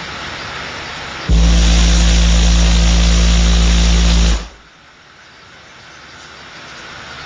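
A 56 Hz test-tone burp on two Hifonics Goliath 15-inch subwoofers, very loud for about three seconds from about a second in, then cut off sharply. A plastic bag is stuffed in the enclosure's port, adding a rattling hiss. A steady noise runs before the burp, and a quieter one rises after it.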